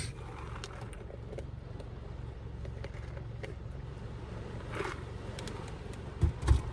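A steady low rumble with a few faint clicks, a brief soft swish about five seconds in, and two dull thumps near the end.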